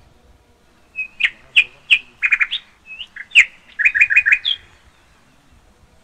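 A songbird chirping: a quick run of sharp, loud chirps and short whistled notes that starts about a second in and stops near four and a half seconds, with a fast rattled series of five notes near the end.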